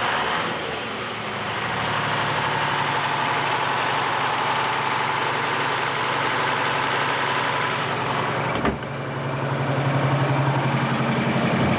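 Detroit Diesel 8V71 two-stroke V8 diesel running and being revved, holding at raised speed. A short click comes about nine seconds in, and the engine runs louder after it.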